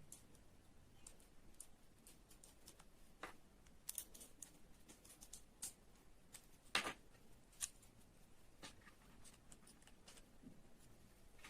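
Faint, scattered clicks and taps of small kit parts being handled and fitted, with the sharpest click a little past the middle.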